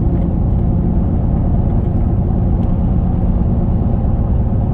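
A vehicle driving along: a steady low rumble of engine and road noise.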